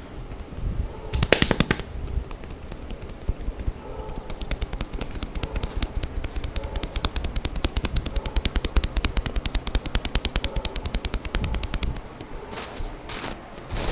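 Hands striking a person's upper back and shoulders in a percussive massage: a short fast flurry of sharp slaps about a second in, then a long even run of rapid strikes, several a second.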